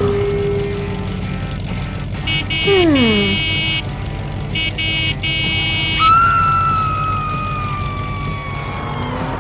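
Cartoon vehicle sound effects over a steady low engine rumble: two bursts of rapid beeping, a short swooping drop in pitch, and from about six seconds in a long whistle-like tone sliding slowly downward.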